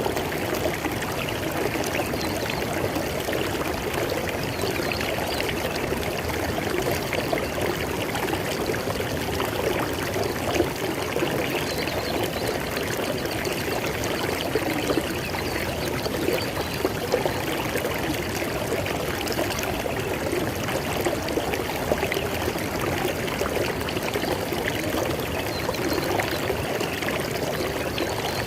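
River water flowing and splashing in a steady, continuous rush.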